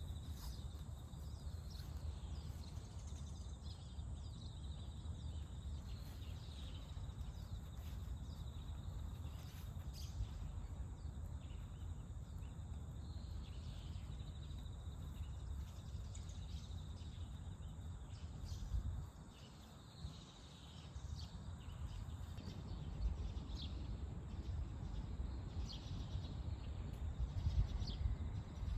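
Outdoor ambience: small birds chirping now and then over a steady low rumble that drops away briefly about two-thirds of the way through.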